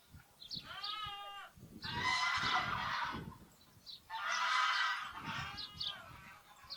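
Lambs bleating: a quavering bleat about a second in, then two louder, coarser bleats of about a second each. Sparrows chirp briefly in between.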